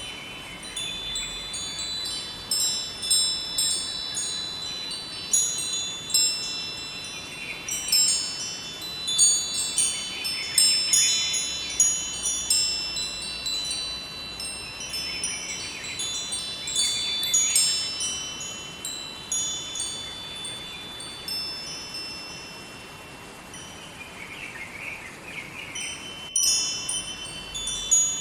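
Wind chimes ringing, struck in irregular clusters so that their high, bright tones overlap and linger, over a faint steady rush of river water. The sound cuts out for an instant near the end.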